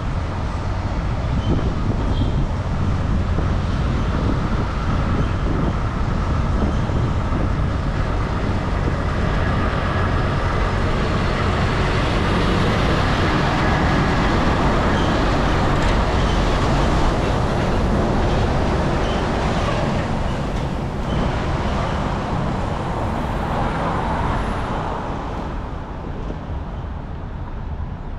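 City street traffic noise heard while riding along, a continuous hiss of passing vehicles over a heavy low rumble, easing off over the last few seconds.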